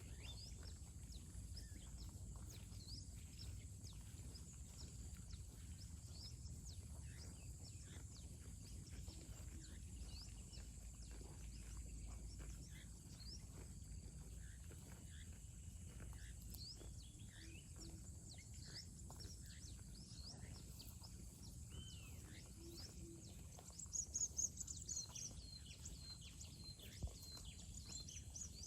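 Outdoor ambience: a steady low rumble with many small bird chirps scattered through it and a steady high tone, and a brief, louder flurry of bird chirping near the end.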